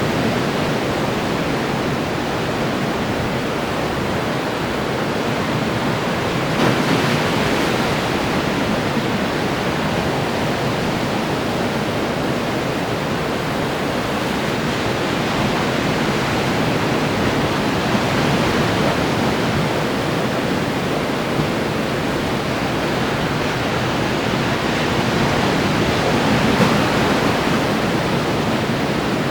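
Ocean surf: waves washing and breaking on the shore in a continuous, steady rush of noise, with brief louder surges about seven seconds in and near the end.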